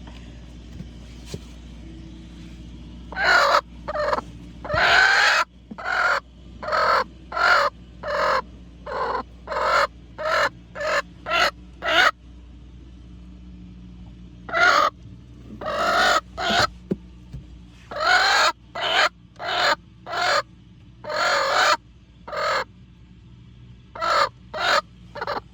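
A chicken cackling loudly: runs of sharp calls about one a second, in three bouts with short pauses, a few calls drawn out longer, over a faint steady low hum.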